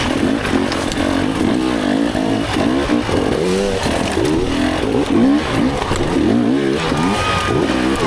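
Dirt bike engine revving up and down in quick, repeated bursts of throttle, the pattern of riding slow, technical off-road terrain.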